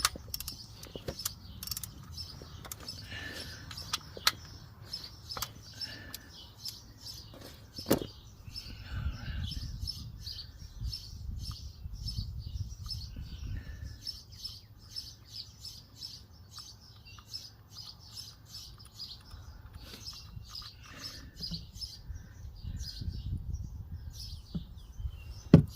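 Small birds chirping rapidly and continuously, with a few sharp clicks and a low rumble underneath.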